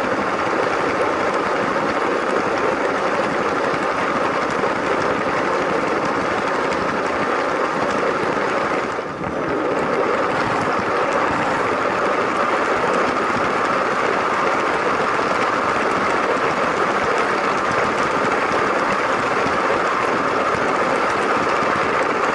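LEGO train's electric motor whirring and its wheels running on plastic track, a steady even noise, with a brief dip in level about nine seconds in.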